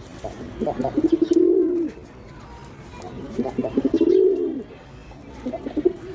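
Domestic pigeon cooing: two full coos and the start of a third, each a quick stutter of short notes running into a long, low note that rises and falls.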